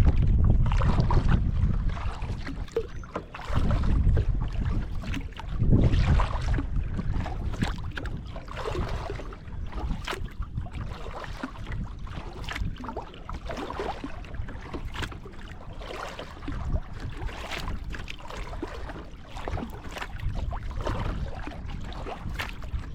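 Kayak being paddled: water splashing and dripping from the paddle and around the hull, with gusts of wind buffeting the microphone, heaviest at the start and twice more in the first six seconds.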